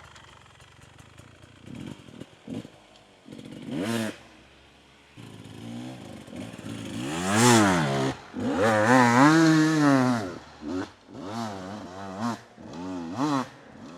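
Two-stroke dirt bike engine, a Beta 250RR, revving hard in repeated bursts as it claws up a steep, loose hill climb, pitch rising and falling with each twist of the throttle. The longest, loudest revs come in the middle, followed by several short throttle blips near the end.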